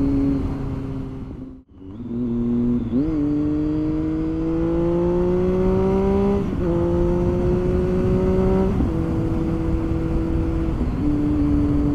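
Triumph Street Triple 675's three-cylinder engine riding along with wind rush. After a brief cut-out about two seconds in, the engine pitch climbs as the bike accelerates, drops twice as it shifts up, and then holds steady at a cruise.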